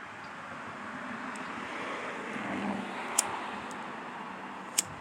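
A passing vehicle: road noise swells to a peak a little past the middle and eases off again, with two sharp clicks, one about three seconds in and one near the end.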